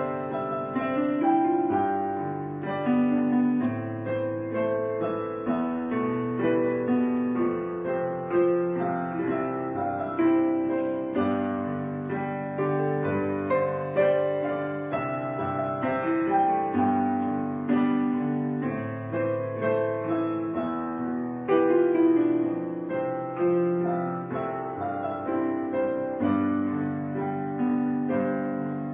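Background piano music: slow chords and melody notes struck about once a second, each ringing and fading.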